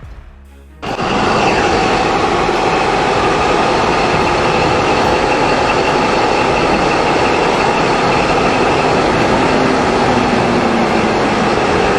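Loud, steady running noise of a heavy vehicle, starting abruptly about a second in and holding unchanged after that.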